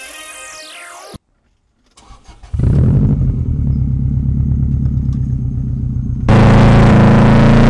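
Modified Subaru Impreza GC8 Turbo's turbocharged 2.0-litre flat-four being started: a few clicks of cranking, then it catches about two and a half seconds in and idles with a loud, evenly pulsing note through a straight-piped exhaust, heard from a microphone at the tailpipe. About six seconds in it suddenly gets much louder, then rises in pitch as it revs.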